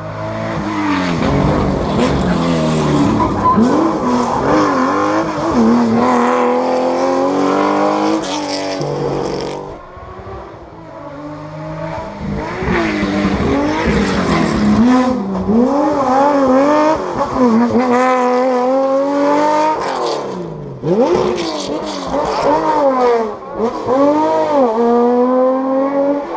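Historic rally cars at full throttle on a special stage: engines revving hard, pitch climbing through each gear and dropping at every shift or lift. One car passes, the sound fades about ten seconds in, and another comes through from about twelve seconds in.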